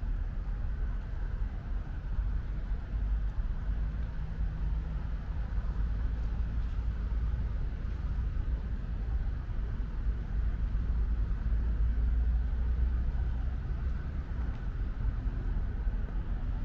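Steady low rumble of city traffic under light rain, with a few faint scattered drip ticks.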